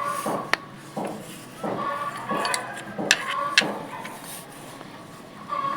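Sharp metallic clicks and knocks of hand tools on the valve gear of a Ford 5000 tractor engine, as a replacement valve adjuster is fitted and tightened. The clicks are irregular; the strongest come about half a second in and twice about three seconds in.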